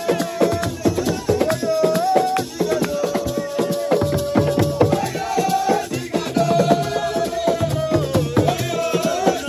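Live assiko music: a dense hand-percussion rhythm with shakers, and long held notes of a melody over it that shift in pitch every second or two.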